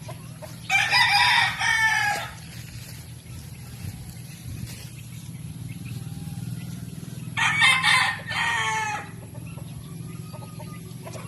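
A rooster crowing twice, each crow about a second and a half long, the second about six seconds after the first.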